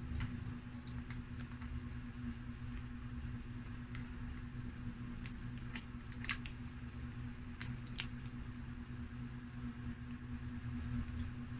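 Close-up eating sounds: a person chewing pizza, with scattered small mouth clicks and smacks, over a steady low hum.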